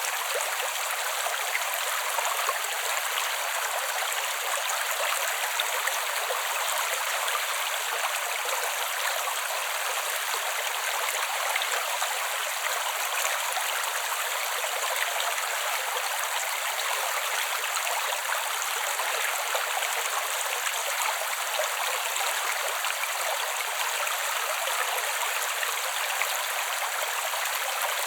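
Creek water flowing steadily: an even rush and babble of water that holds the same level throughout, with no low rumble underneath.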